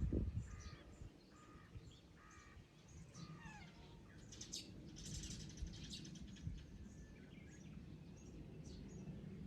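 Birds calling outdoors: three short, harsh calls in the first couple of seconds, then scattered high chirps and short gliding whistles, faint over a low steady outdoor background.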